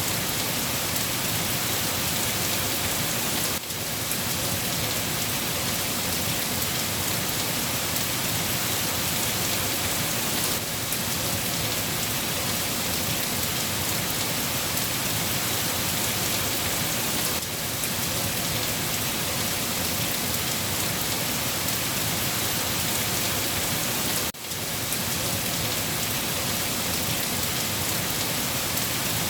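Steady, dense rain falling on a surface, an even hiss of drops with no letup. The level dips briefly about every seven seconds.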